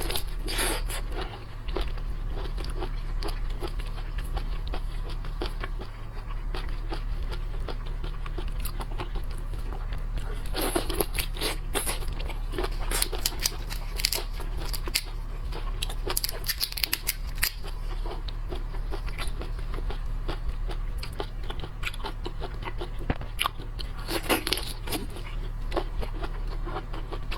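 Close-miked eating of shrimp and shellfish: crisp crunching, crackling and wet chewing, with louder clusters of crunches now and then, over a steady low hum.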